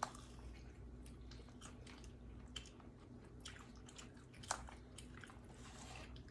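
Quiet chewing with a few scattered sharp mouth clicks, the loudest about four and a half seconds in, over a faint steady low hum.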